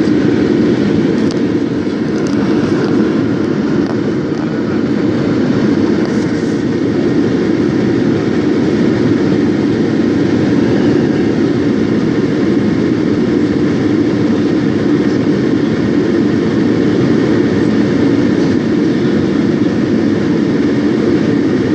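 Steady cabin noise of an airliner in flight: a constant low rush of engines and airflow heard from inside the cabin.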